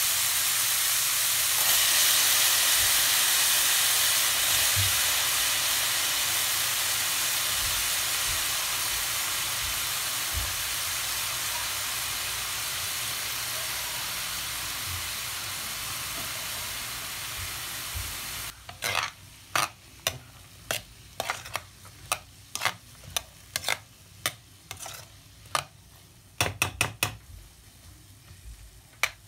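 Skinless longganisa, carrots and diced potatoes frying in oil in a pan, a steady sizzle that slowly grows quieter. About two-thirds of the way through the sizzle falls away, and a spatula stirs and scrapes against the pan in a string of short, sharp strokes.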